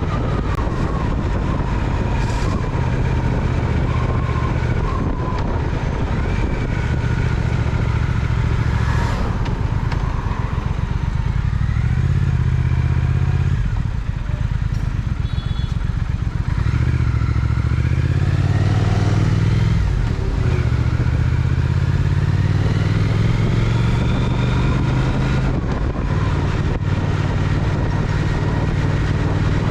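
Triumph Speed Twin's parallel-twin engine running under way, its pitch rising as it accelerates and dropping briefly at gear changes a few times.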